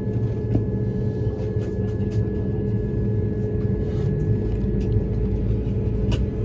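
Steady cabin noise inside an Airbus A220-300: a low rumble with a steady hum and a thin steady whine above it, and a few faint clicks.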